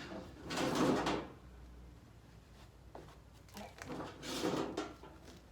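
Two short scraping, rustling handling sounds, each lasting about a second: one near the start and one about four and a half seconds in.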